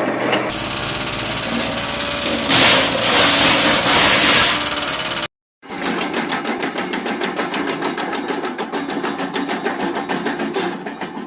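Wood chipper running, with a louder, noisier stretch about three seconds in. After a brief dropout the machine runs on with a fast, even pulsing.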